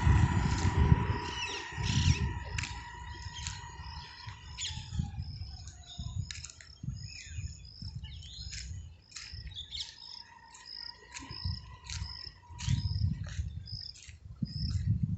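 Small birds chirping, one short high note repeated about twice a second through most of it, with other calls scattered around it. A steady drone fades away in the first few seconds, and bursts of low rumble come and go.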